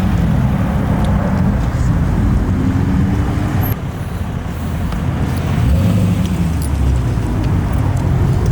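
Car engine running at low revs nearby, a deep steady rumble that eases slightly about four seconds in and swells again around six seconds.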